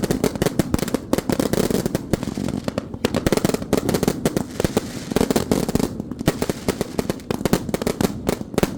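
Firecrackers going off in a rapid, unbroken run of pops, many per second.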